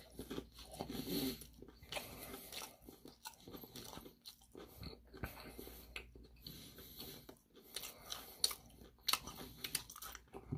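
A person chewing crispy Korean fried chicken close to the microphone: many short, sharp crunches with chewing between them.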